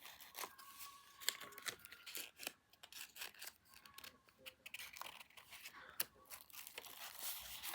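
Paper being handled: irregular rustling and crinkling with sharp little clicks.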